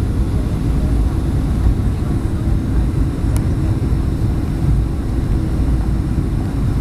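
Steady low rumble of a Boeing 737's engines and airflow heard inside the passenger cabin during landing.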